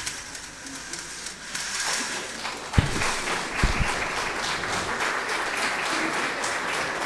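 Audience applauding. The applause builds over the first two seconds and then holds steady, with a few low thumps about three seconds in.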